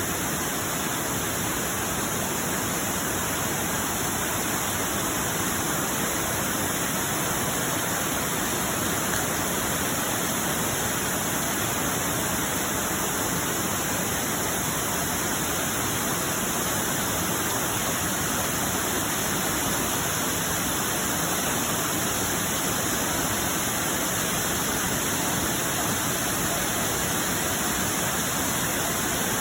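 Waterfall rushing: a steady, even wash of falling water that doesn't change throughout.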